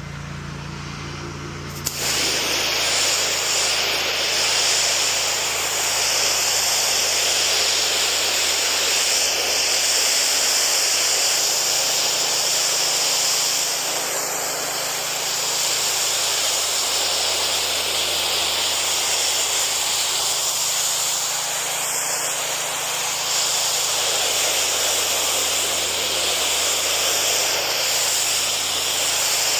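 Pressure washer spraying through a 40-degree white tip. The jet's steady hiss starts suddenly about two seconds in, over the constant hum of the machine running.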